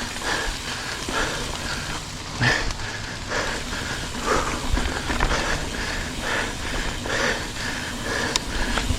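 Mountain bike riding over a dirt trail, heard up close from the bike: tyres rolling over the ground with the chain and frame rattling, and a couple of sharper knocks, one a few seconds in and one near the end.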